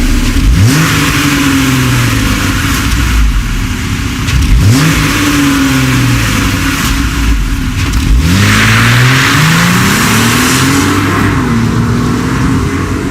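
Jeep Wrangler JL engine revved about four times through a Borla ATAK stainless catback exhaust; each rev rises quickly and then falls back to idle.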